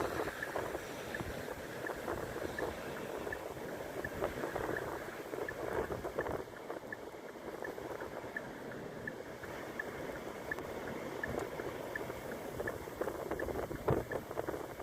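Wind blowing through a snowy landscape, a steady gusting rush with rumble on the microphone. A faint high ticking repeats evenly about three times a second throughout.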